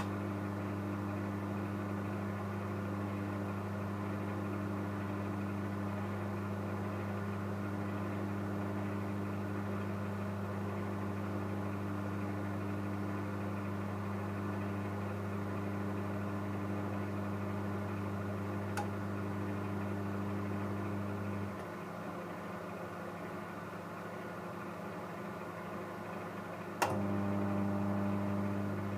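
Microwave oven running with a steady low hum from the magnetron. About 21 seconds in the hum cuts out, leaving only the quieter whir of the fan. Some five seconds later it comes back on with a click, as the oven cycles its magnetron off and on.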